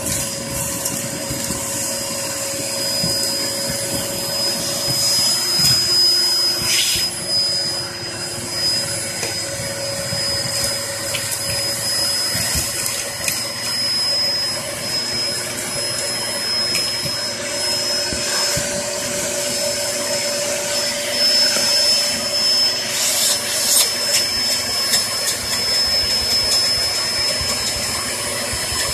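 Hoover Performer Pet HPT16 upright vacuum cleaner running steadily, a high motor whine over the rush of suction, as it picks up fireplace ash, with a few short crackles.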